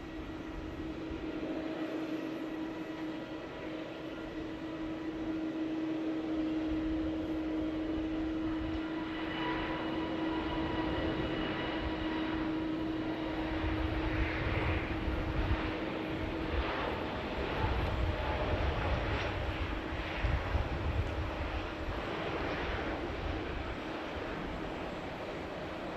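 Jet airliner engines: a steady whine with a low drone, joined about halfway through by a louder, uneven rumble that eases near the end.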